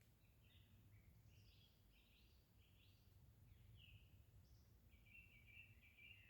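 Faint songbird song at dawn: short high chirping notes about once or twice a second, running into a quicker string of notes near the end, over a low steady rumble.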